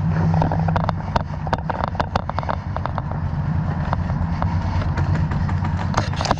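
Airsoft gunfire during a game: irregular sharp clicks of shots, bunched around two seconds in and again near the end, over a steady low rumble.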